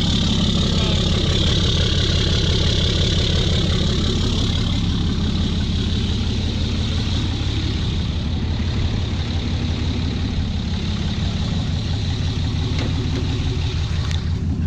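6.7L Cummins turbo diesel in a 2011 Ram 2500 idling cold through a 5-inch turbo-back exhaust with no muffler, a steady low pulsing rumble. A high turbo whistle rides over it, strongest in the first few seconds and then fading.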